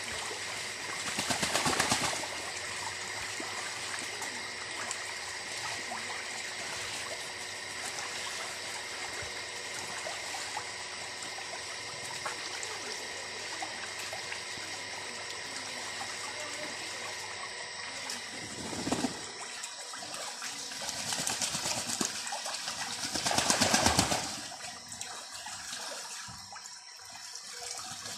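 Steady trickling, running water that swells louder about two seconds in and again near the end.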